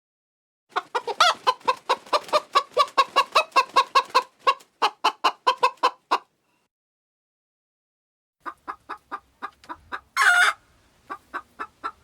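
Chicken clucking in a fast run of short clucks, several a second, for about five seconds. After a pause come quieter clucks, broken by one short, louder squawk about ten seconds in.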